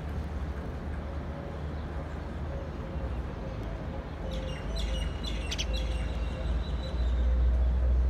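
A small bird chirping: a quick run of short, high chirps about four and a half to six seconds in, over a steady low rumble.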